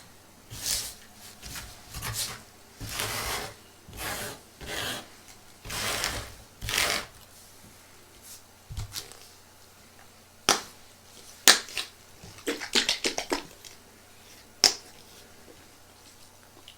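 Hands handling and opening a carded Pez package. First comes a run of rubbing, scraping strokes, then after a pause a few sharp clicks and a quick flurry of crackling clicks.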